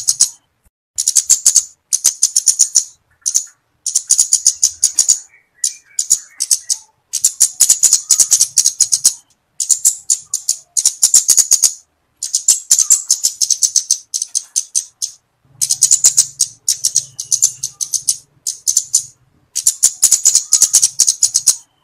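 Flowerpecker (kemade, cabe-cabean) calling in rapid strings of sharp, high-pitched ticks, each string lasting about one to two seconds with brief pauses between.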